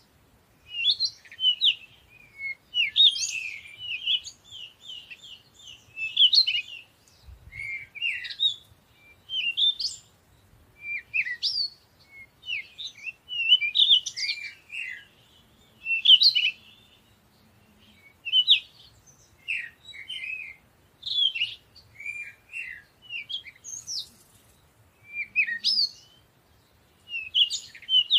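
Birdsong: short runs of high, quick chirps, repeating every second or two with brief pauses between them.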